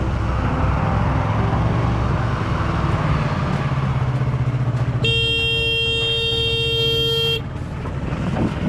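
Vehicle engine and road noise, then a horn held for about two and a half seconds from about five seconds in, cutting off suddenly.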